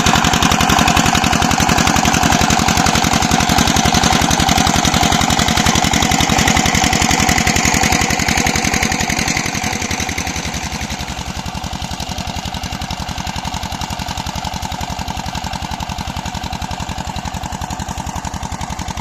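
Single-cylinder diesel 'Peter' engine running a new tubewell pump, firing in a steady, rapid, even beat. About halfway through it becomes quieter and duller, then runs on steadily.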